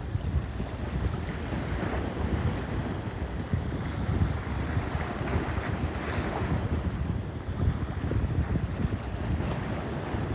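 Sea waves washing, with wind buffeting the microphone in a gusty low rumble.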